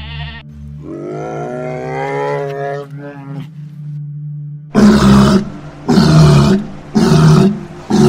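A bear roaring four times in the second half, rough calls each lasting under a second. Before that comes a drawn-out animal call rising in pitch.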